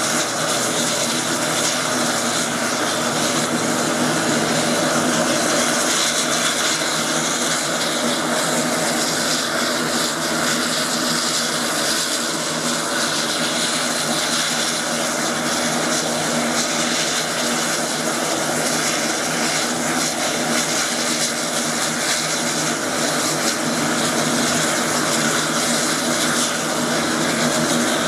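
Air Tractor 802 crop-duster's turboprop engine and propeller running steadily, with an even drone and no rise or fall in level.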